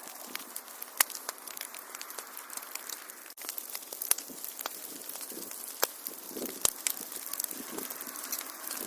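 Wood fire crackling in a fireplace: a steady hiss with sharp pops and snaps at irregular intervals, and a brief break in the sound a little past a third of the way in.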